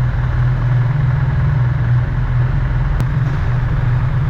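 Motorcycle engine running at a steady low pitch, with a single sharp click about three seconds in.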